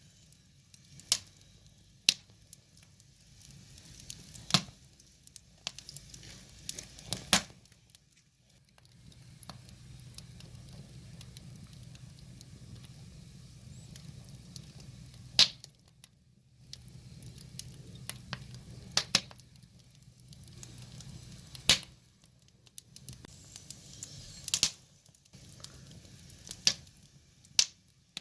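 Wood fire burning, with sharp pops and crackles at irregular intervals over a soft hiss of flames that swells and fades.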